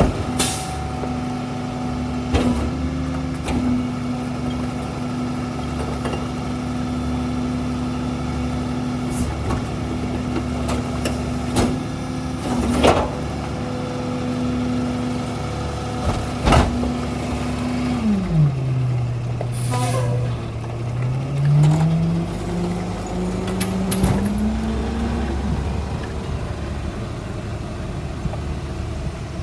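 Ford F-750 Heil rear-loader garbage truck running with its engine held at a steady raised speed, with scattered clanks and knocks. About 18 seconds in the engine speed drops away, then climbs steadily again, with a short sharp air hiss around 20 seconds.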